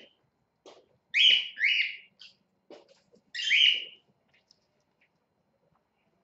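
Pet cockatiel calling: two quick chirps a little over a second in, then one more at about three and a half seconds, with a few faint clicks between.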